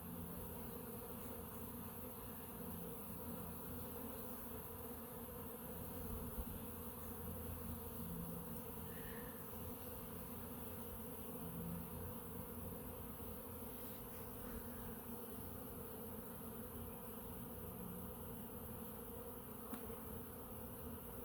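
A dense crowd of honeybees buzzing steadily at a hive entrance: heavy foraging traffic, with workers flying in and out.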